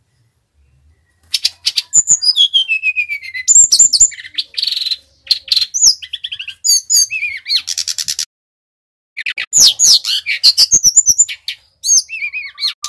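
Sikatan rimba dada coklat flycatcher (Bali SRDC) singing loudly: quick, varied phrases of high swooping and falling whistles, chattering trills and a short buzzy note. The song starts about a second in and breaks off once for about a second around the middle.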